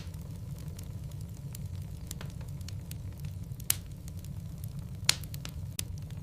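Wood fire of burning logs crackling and popping in a fireplace, with a steady low rumble of the flames under frequent sharp snaps and two louder pops, about a third of the way in and again near the end.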